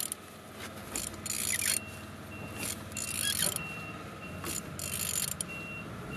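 An engine being turned over by hand to show that it turns freely: irregular mechanical clicks and scrapes as it is rotated.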